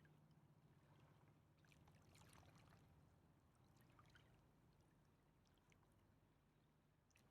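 Near silence: faint lapping of river water, a few soft clicks and trickles around the middle, over a steady low hum.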